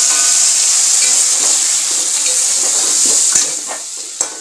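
Wet spice paste sizzling in hot mustard oil in a wok with fried potato and green plantain, stirred with a metal spatula. The sizzle eases about three seconds in, and the spatula clicks against the pan a few times near the end.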